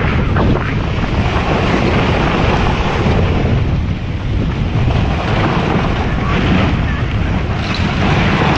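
Loud, steady rushing noise of strong wind buffeting the microphone.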